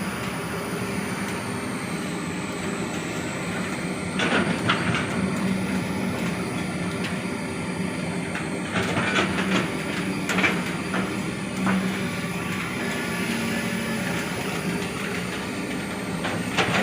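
Heavy diesel machinery engine running steadily, with a few short knocks now and then.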